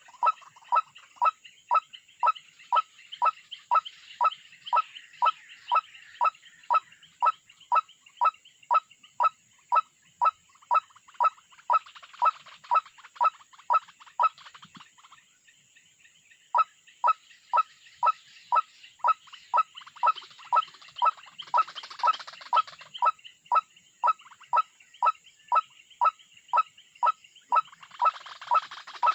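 A bird call, one short note repeated quickly and very evenly at about three notes a second, with a pause of about two seconds partway through.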